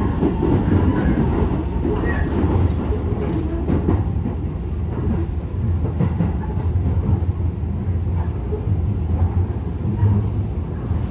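Keisei 3000 series commuter train running, heard from inside the passenger car: a steady low rumble of wheels and running gear on the rails.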